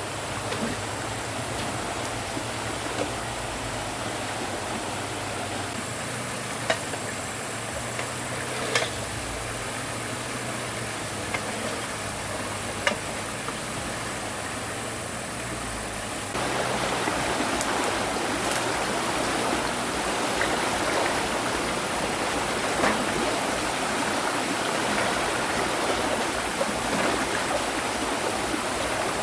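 Steady rush of flowing river water, with a few sharp knocks scattered through it. The rushing gets suddenly louder a little past halfway.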